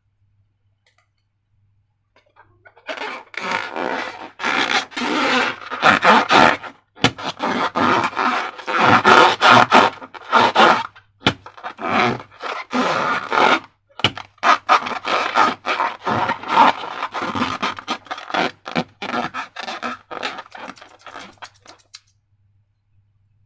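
Slime being mixed and squished: wet, sticky crackling and scraping, full of little clicks, starting about three seconds in and stopping shortly before the end.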